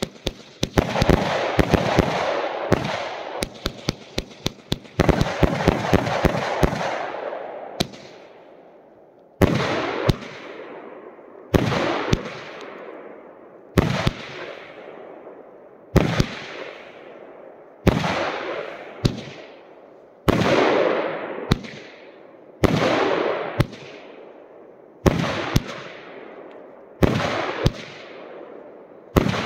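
A 67-shot consumer fireworks cake firing. For about the first eight seconds a dense run of sharp cracks and crackle, then single shots about every two seconds, each a sharp bang that trails off in a fading hiss.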